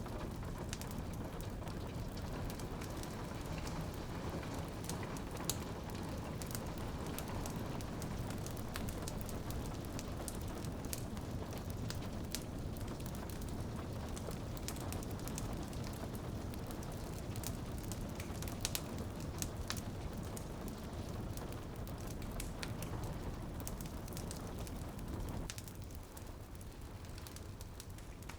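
Steady rain pattering on a window mixed with a wood fire in a fireplace crackling, with sharp pops scattered throughout; the rain softens a little near the end.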